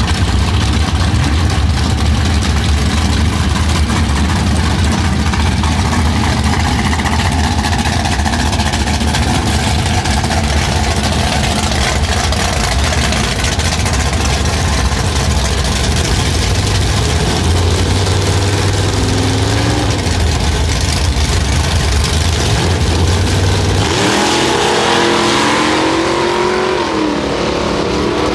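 Antique drag cars, a red Camaro among them, running loudly at the starting line with a steady deep engine rumble. Near the end the engines are revved up and down as the cars stage.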